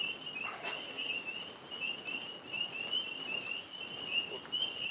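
Tree frogs calling: a steady high-pitched trill of rapid pulses.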